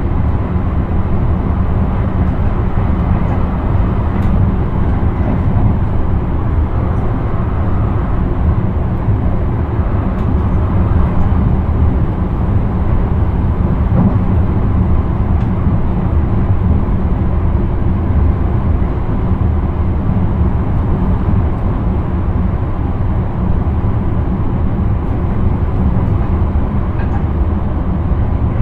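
Steady rumble of a passenger train running along the line, heard from inside the driver's cab: wheels rolling on the rails with a deep low hum and a few faint ticks.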